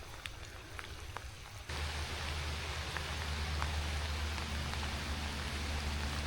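Rain falling, at first light with separate drops ticking, then about two seconds in a sudden change to a louder, dense hiss of rain with a steady low rumble underneath.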